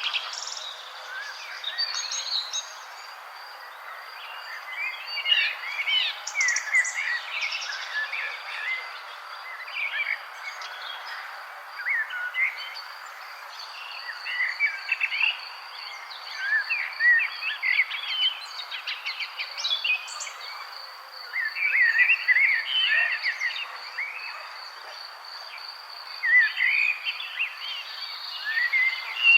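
Songbirds chirping and twittering in short clusters of quick notes, with an insect trilling steadily underneath in a fast, even high pulse.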